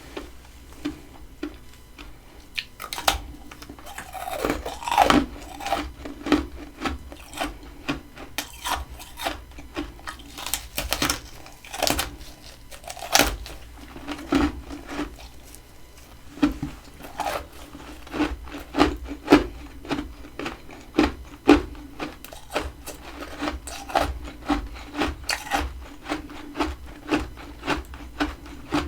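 Close-up crunching of freezer frost ice: a dense run of crisp, irregular crunches, several a second, with louder ones scattered throughout.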